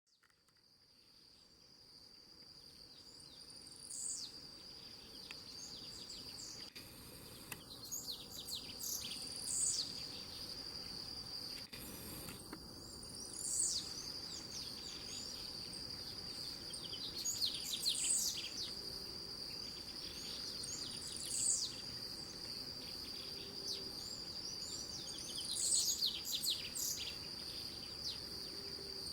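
A small grey, white-breasted songbird singing short, high, falling phrases, repeated every few seconds. Behind it runs a steady high-pitched insect trill.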